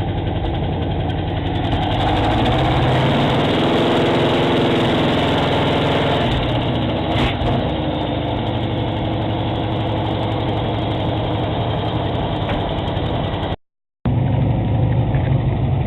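Oldsmobile 403 V8 engine of a 1979 Trans Am idling steadily, brought back to life after about five years of sitting. The sound cuts out completely for a moment about two seconds before the end, then the idle resumes.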